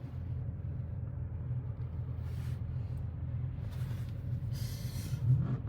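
Steady low rumble of a car's engine and tyres heard from inside the moving car's cabin. A brief hiss comes a little before the end.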